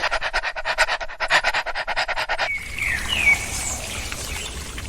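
A dog panting quickly with rapid, even breaths, which cut off suddenly about halfway through. A steady faint hiss follows, with a few short high chirps.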